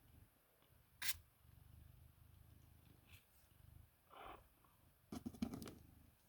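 Faint scuffling from 18-day-old kittens moving about, with a sharp click about a second in and a quick run of clicks and knocks near the end.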